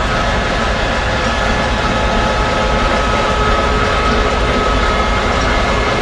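Passenger train hauled by a steam locomotive running steadily: a continuous rumble and hiss with faint steady tones over it.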